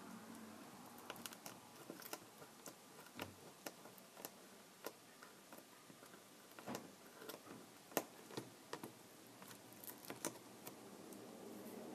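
Faint, irregular small clicks and taps of tools and small parts being handled during a Kindle Fire tablet repair, a dozen or more scattered through the stretch with no steady rhythm.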